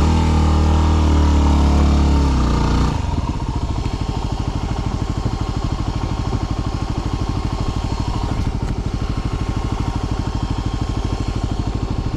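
Dirt bike engine running at raised revs for about three seconds, its pitch sinking, then settling to a steady idle with an even pulsing beat.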